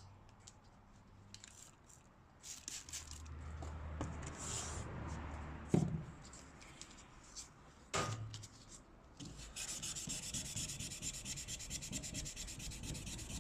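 Hand sanding a san mai steel knife blade with sandpaper: scattered rubbing and two sharp knocks, then, from about two-thirds in, a fast, even run of back-and-forth sanding strokes that stops suddenly.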